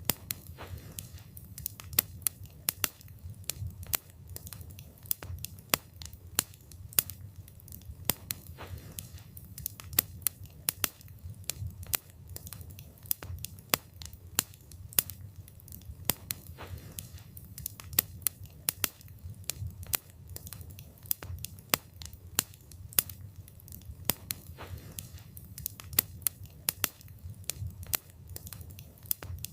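Campfire burning, its wood crackling and popping in frequent, irregular sharp snaps over a low steady rumble.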